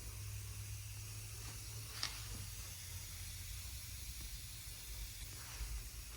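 Steady hiss of a dry ice blasting nozzle spraying compressed air and dry ice, over a low hum, with one sharp click about two seconds in.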